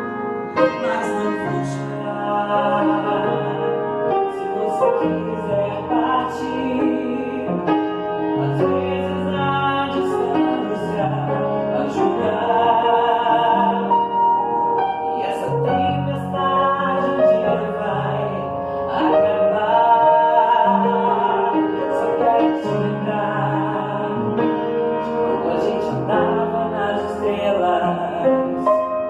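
A slow pop ballad sung over piano accompaniment, the voice holding long notes with vibrato.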